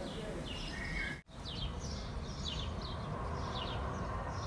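Small birds chirping in short, quickly repeated descending chirps over a steady low outdoor rumble. The sound cuts out for an instant about a second in.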